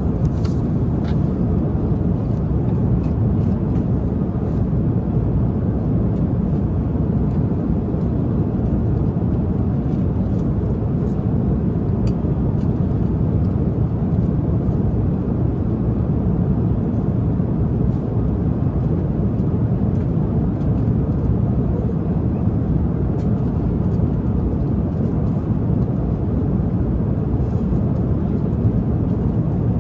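Steady drone of a jet airliner's cabin in flight, an even low rushing noise. A few faint light ticks sit on top of it.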